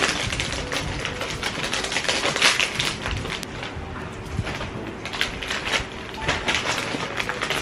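Plastic snack-bag wrapper crinkling and rustling as it is handled and opened, a dense run of irregular crackles.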